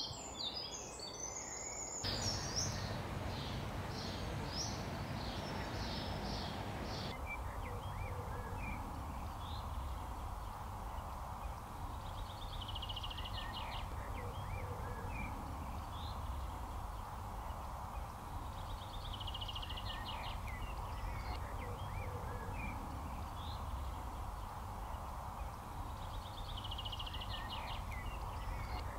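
Birds singing outdoors. One bird repeats a short trilled phrase about every seven seconds among scattered chirps, over a steady low rumble of background noise.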